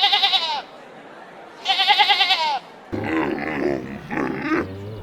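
Goat bleating: two quavering, wavering bleats, each under a second long. About three seconds in, a different, lower and rougher animal call takes over.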